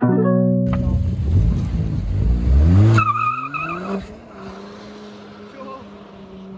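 Car accelerating hard: the engine revs climb over about two seconds. About three seconds in comes a wavering tyre squeal from wheel spin, then the engine settles into a steadier, quieter drone.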